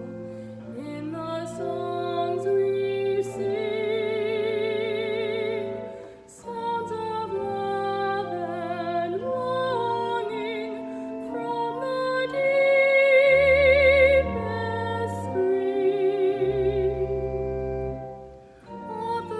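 A solo voice singing sustained notes with strong vibrato over a sustained low accompaniment, pausing briefly for phrase breaks about six seconds in and near the end.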